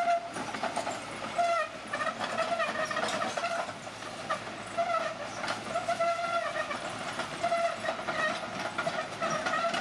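Crawler bulldozer's steel tracks squealing in short, repeated metallic squeals about once a second, with clanking and rattling between them.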